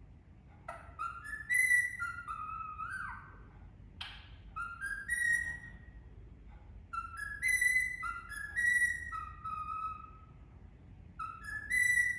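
Indian ringneck parakeet whistling a learned tune of clear stepped notes, rising then falling, repeating the same short phrase about four times with pauses between. A brief harsh squawk cuts in about four seconds in.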